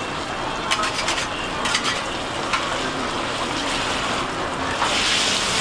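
Food frying and sizzling in hot oil, with a few sharp clicks about a second in. The sizzle grows louder near the end.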